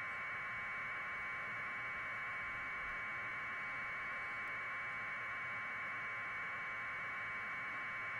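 Steady, unchanging static hiss with no other sound.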